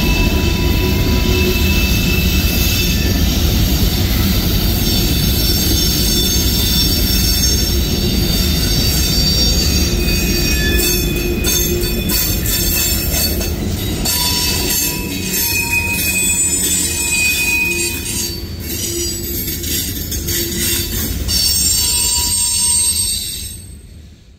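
Freight cars of a CSX manifest train rolling slowly past, their wheels squealing in several steady high tones over a heavy rumble, with sharp clicks from the wheels over the rail joints in the second half. The uploader puts the squeal down to brakes left applied. The sound fades out near the end.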